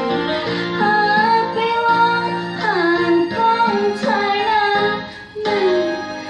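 A female voice singing a slow Thai song with gliding, held notes over instrumental backing, with a brief drop in level a little before the end.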